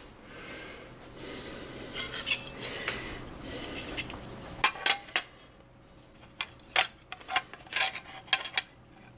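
Metal washer door hinge plates being handled and laid against each other: a stretch of rubbing and scraping, then, from about four and a half seconds in, a series of sharp clinks and taps.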